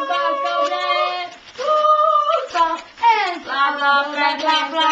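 Children singing a repetitive one-word chant-like song without accompaniment, with held, gliding notes.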